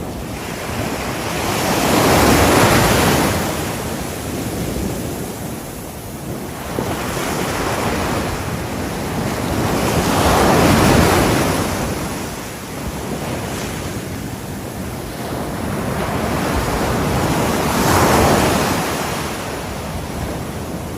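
Ocean waves breaking on a shore: three waves swell up and wash away, with a steady rush of surf between them.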